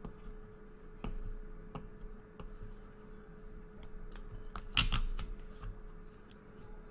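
Hands opening and handling a trading-card box and its thin foam packaging: scattered small clicks, snips and rustles, with a louder clatter about five seconds in.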